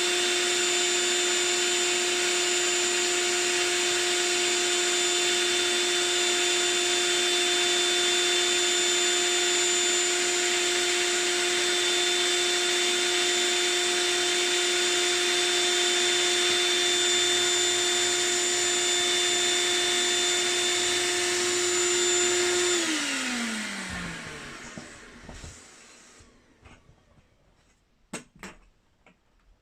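A small electric blower motor runs at a steady pitch with a whine and a rushing hiss. It is switched off about 23 seconds in, and its pitch falls as it spins down. A few faint clicks and rustles follow.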